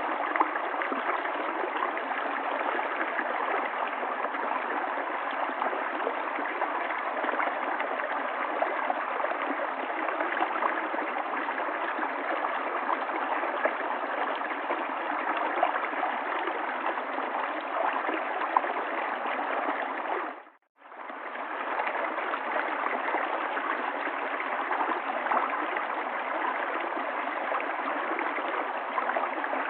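River water flowing over rocks in a steady, even rush and gurgle. About two-thirds of the way through it fades out completely for under a second, then comes straight back.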